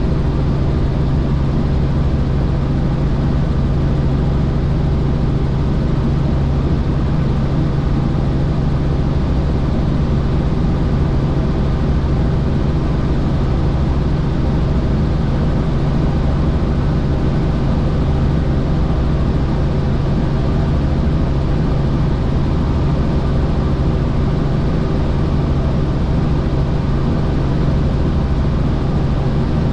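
Helicopter in flight: a loud, steady drone of rotor and engine that holds an even pitch throughout.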